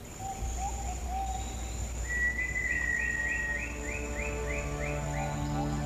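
Rainforest wildlife ambience: a steady high insect buzz throughout, a bird's short calls in the first second or so, then a run of about eight quick rising chirps at roughly two a second. A low drone sits underneath, and music begins to come in near the end.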